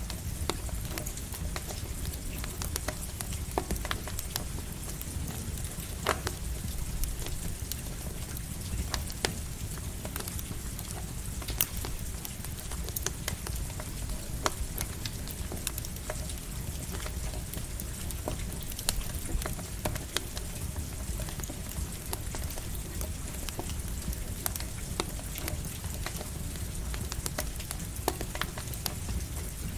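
Campfire crackling, with sharp pops at irregular intervals, over the steady hiss of light rain and a low rumble.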